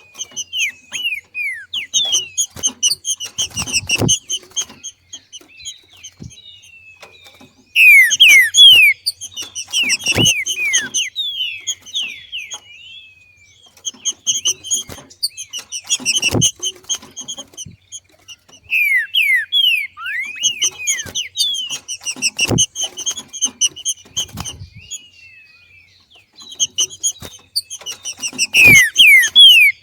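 Green-winged saltator (trinca-ferro) giving its rapid 'macheado' call: bouts of a few seconds of fast, sliding, downward chirps with short pauses between them. A dull thump sounds in most bouts, about every six seconds.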